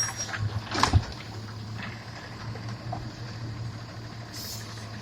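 Garbage truck running with a steady low hum, and one sharp knock about a second in.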